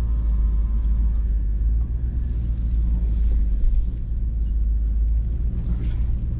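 Hummer H2's V8 engine running at low trail speed, a steady low rumble heard from inside the cab.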